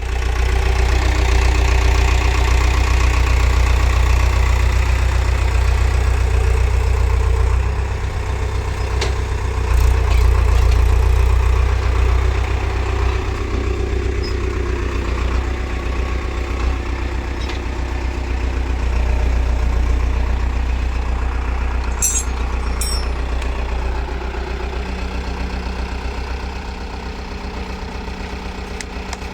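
Tractor diesel engine running steadily with a deep low rumble, easing off a little toward the end. A couple of faint clicks about two-thirds of the way through.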